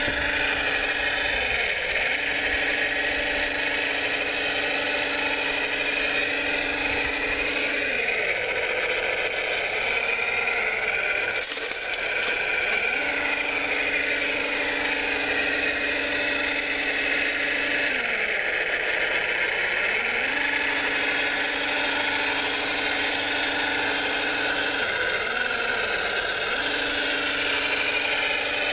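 Electric motors and gearing of radio-controlled model construction machinery whirring steadily. A steady tone in the whir dips in pitch and comes back several times, and there is one brief noise about eleven seconds in.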